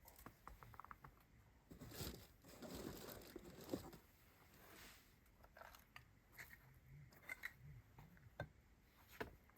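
Campfire crackling softly: scattered sharp pops and snaps, with a denser, louder run of crackling about two seconds in.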